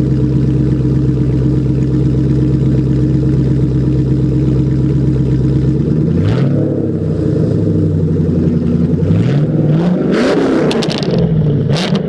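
2002 Chevrolet Camaro Z28's 5.7-litre LS1 V8 through an aftermarket SLP exhaust, idling steadily, then revved up and back down several times in the second half.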